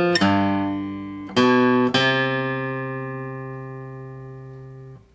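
Acoustic guitar playing a slow single-note melody, picked one note at a time; the final note is held ringing for about three seconds and fading, then damped by hand and cut off near the end.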